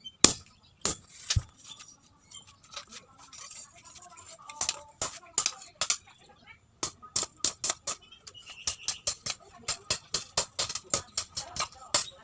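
Hand hammer striking steel on an anvil while forging a machete blade, each blow ringing metallically. A few blows at the start, a sparser stretch, then a steady run of quick blows at about four a second from a little past halfway.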